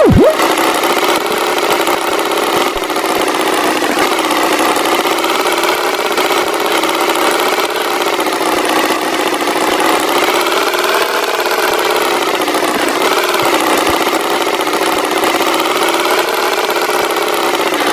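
A tractor engine runs steadily as a cartoon sound effect, its pitch drifting slowly up and down. A short swooping whistle comes right at the start.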